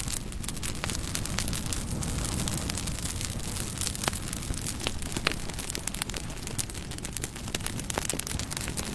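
Wood fire burning: a steady low rumble of flames with frequent sharp crackles and pops, the loudest pops about four and five seconds in.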